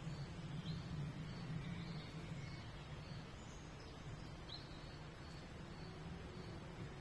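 Faint small-bird chirping: a short high note repeating about twice a second, with a quick rising call twice, over a steady low background hum.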